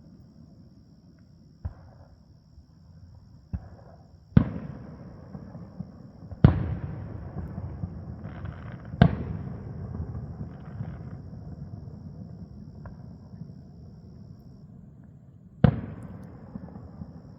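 Fireworks bursting overhead. Two small pops come first, then four loud booms spread over the next dozen seconds, each trailing off in a long rolling echo.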